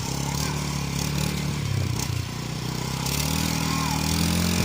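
Suzuki Gixer single-cylinder motorcycle engine running on the move: its pitch drops about two seconds in, then rises steadily as it accelerates.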